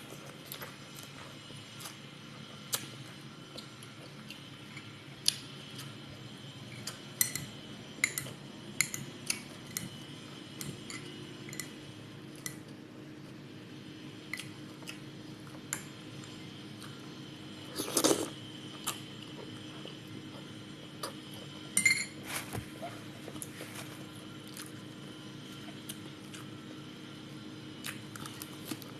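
Cutlery clinking against dishes in scattered light taps during a meal, with a louder clatter about eighteen seconds in and a ringing clink a few seconds later, over a faint steady hum.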